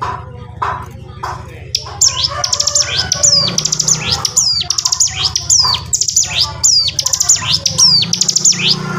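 Ciblek gunung (bar-winged prinia) singing a rapid, chattering 'ngebren' song of high notes that sweep downward over and over, the song becoming dense and continuous about two seconds in. A steady low hum lies under it.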